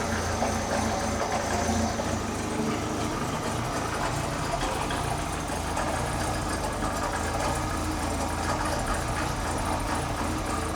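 1985 Lancia A112 Abarth's 1050 cc Fiat four-cylinder engine idling steadily, running fine on a freshly fitted distributor cap and rotor.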